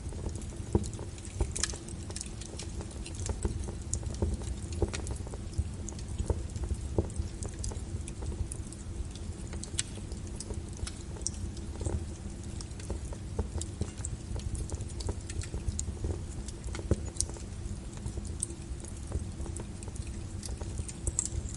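Wood logs burning in a fireplace, crackling with many irregular sharp pops over a low steady rumble of the fire, with a faint steady hum underneath.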